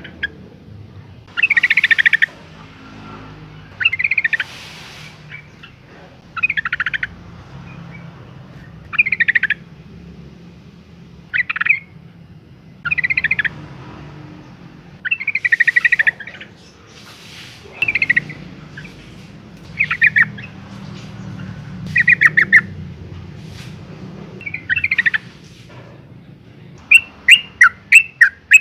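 Yellow-vented bulbul calling: short chattering phrases repeated about every two seconds, then a quick run of sharp notes near the end. This is the female's call, used to lure males into singing.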